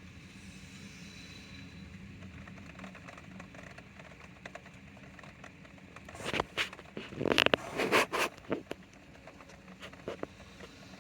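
Steady rain with scattered drips pattering. About six seconds in comes a loud cluster of close knocks and scrapes lasting a couple of seconds, with a few lighter ticks after.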